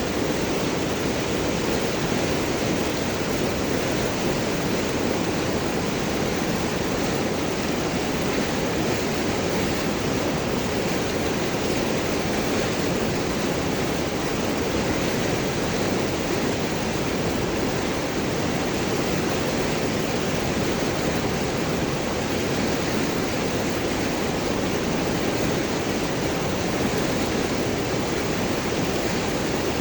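River water rushing and gurgling over and around large rocks, a steady, even wash of sound with no breaks.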